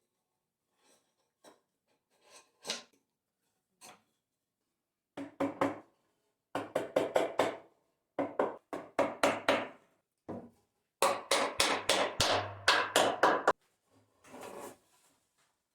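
Hand tool working wood in quick repeated strokes, about five or six a second, in bursts of one to two seconds with short pauses between them, after a few faint scattered taps.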